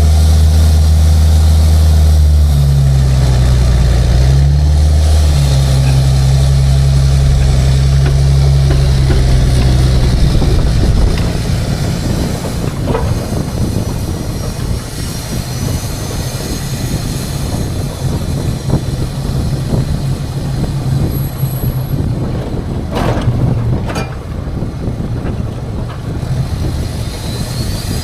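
Tow truck running on the road: a deep, steady engine drone that shifts pitch a couple of times, giving way about ten seconds in to a quieter, rougher rumble. Two sharp clicks come a little before the end.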